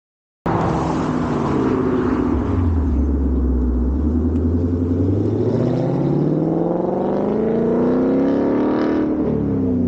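2021 Mustang GT's 5.0 L Coyote V8 through a Borla ATAK cat-back exhaust under acceleration. The sound cuts in about half a second in. The exhaust note falls and holds low, then climbs steadily for several seconds. Near the end it drops sharply with a gear change and starts climbing again.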